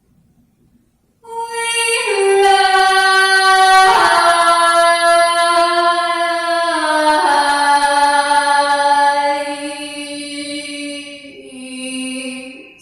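A woman singing unaccompanied, holding one long wailing note after a short silence. The pitch steps gradually lower several times before the note ends.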